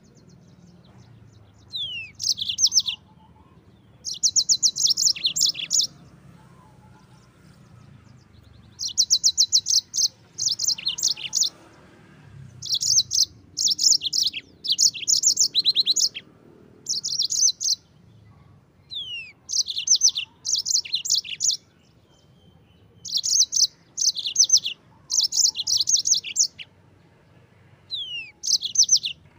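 Yellow-fronted canary (Mozambique canary) singing: repeated phrases of rapid, high trilled notes, some opening with a quick downward-sliding whistle, each phrase about one to two seconds long with short pauses between.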